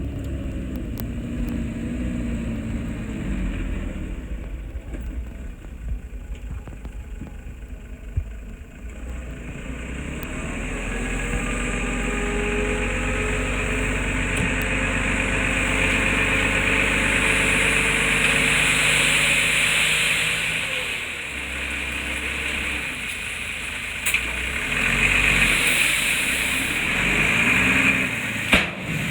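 Diesel engine of a small piece of earthmoving equipment working. It rises in pitch and loudness about a third of the way in as it takes load, eases off around two-thirds through, then rises again before cutting off suddenly near the end.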